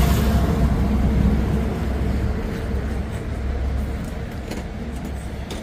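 Low rumble of a motor vehicle's engine running close by, loudest at first and slowly fading away.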